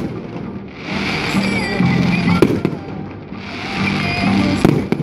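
Fireworks going off over music: swells of crackling and hiss, with sharp bangs about two and a half seconds in and again near the end.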